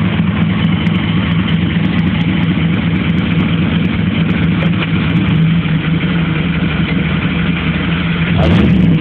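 A 1985 Pontiac Trans Am's 305 small-block Chevrolet V8 (5.0 litre) idling steadily in park. It gets slightly louder near the end.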